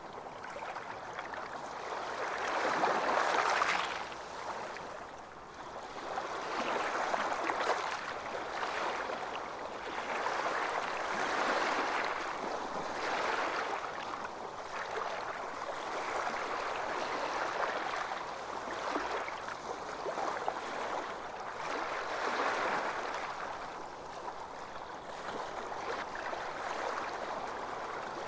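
Small waves washing onto a beach, a steady wash of surf that swells and ebbs every few seconds, the biggest swell about three seconds in.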